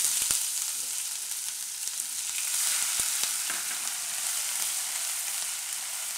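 Crushed ginger, green chilli and garlic sizzling in hot oil in a kadai, a steady hiss, with a silicone spatula stirring it and giving a few faint clicks.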